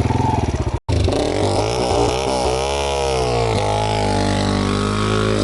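Off-road motorcycle engine running, with a brief dropout about a second in, then revving up and easing back down in the middle.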